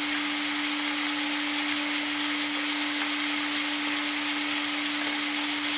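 Boiled sulphur shelf mushroom pieces sizzling steadily in a frying pan, over a constant low hum.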